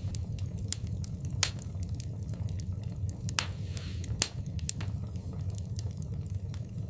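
Wood fire in a fireplace crackling, with irregular sharp pops over a steady low rumble. The loudest pops come about a second and a half in and just after four seconds, with a brief hiss just before the second.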